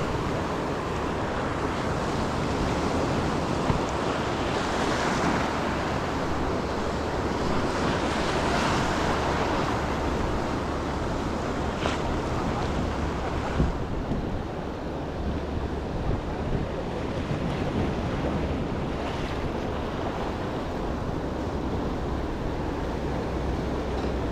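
Ocean surf breaking and washing up the shore, swelling and easing in slow waves, with wind buffeting the microphone as a low rumble. A single short knock comes about halfway through.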